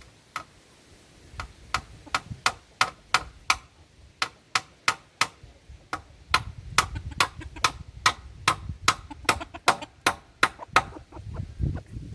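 A run of sharp strikes from a hand tool on a hard material, about three a second, in several bursts with short pauses between them.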